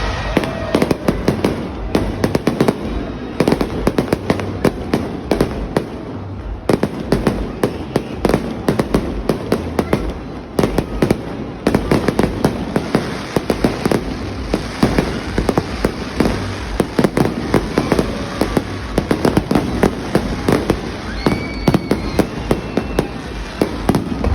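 Fireworks going off in a dense, continuous barrage of bangs and crackles, many each second without a pause.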